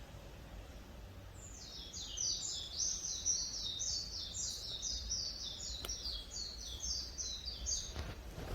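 A songbird singing a long, rapid trill of high, falling notes, about three or four a second, starting a second and a half in and lasting some six seconds, over a low steady background rumble.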